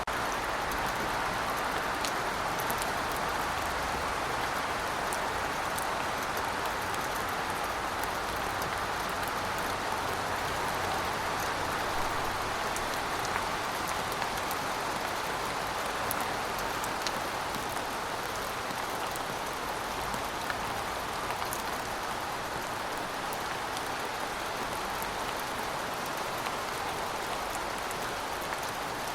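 Steady rainfall: an even hiss of rain with scattered light drop ticks.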